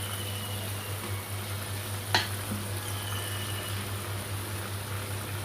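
Chicken curry sizzling in hot oil in a pan, with a steady low hum underneath and one sharp tap about two seconds in.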